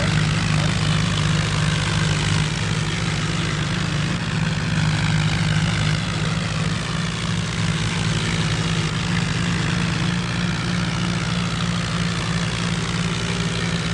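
Tractor diesel engine running steadily at a constant speed, with a deep, even hum.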